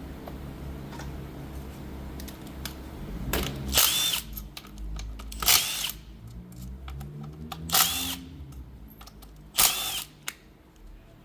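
Power drill spinning in four short bursts about two seconds apart, each with a whine that rises and falls, driving out the 10 mm bolts of the shifter selector on a manual transmission.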